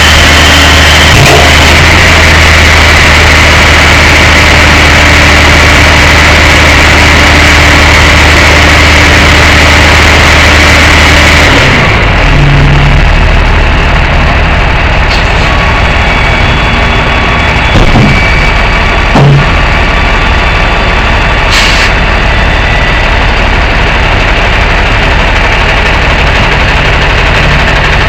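Truck engine running steadily with a constant hum and whine. About halfway through the sound changes abruptly to a lower, duller running note, and two short knocks follow a few seconds later.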